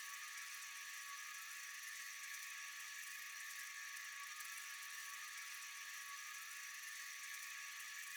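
Steady chorus of night insects: a faint, unbroken, high-pitched hiss of many callers blended together, with no single call standing out.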